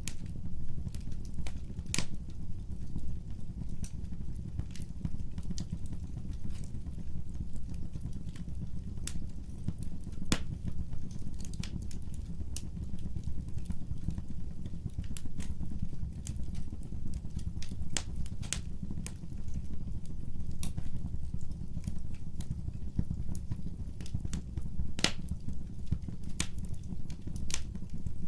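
Wood fire burning: a steady low rumble of flames with irregular sharp crackles and pops, a handful of them much louder than the rest.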